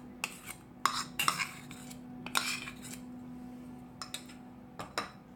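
A spoon scraping and clinking against a bowl several times as almond and cashew nut paste is spooned onto marinating chicken, over a faint steady hum.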